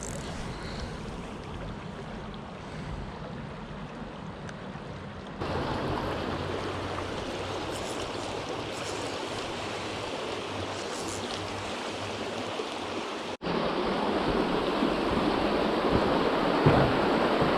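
Small mountain creek running over rocks, a steady rushing babble of water. It jumps louder abruptly about five seconds in, and again after a brief dropout a little past the middle.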